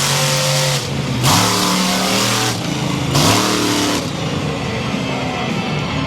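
Monster truck engine revving hard in three loud bursts. The pitch drops and climbs again between them, then the engine settles to a lower, steadier run about four seconds in.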